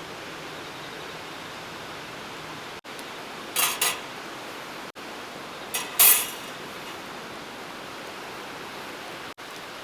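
Camp cookware clinking in two short clusters of sharp metallic knocks, a few seconds apart, over a steady background hiss of water noise.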